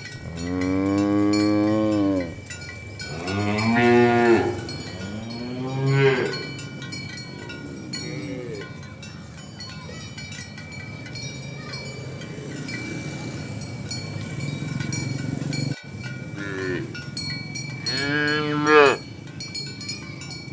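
Cattle mooing: about six long, drawn-out moos that rise and fall in pitch. Three loud ones come in the first six seconds and another loud one near the end, with fainter moos between.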